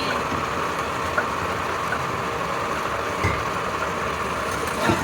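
Steady running noise of the workshop lathe spinning a large truck axle, with one or two light ticks.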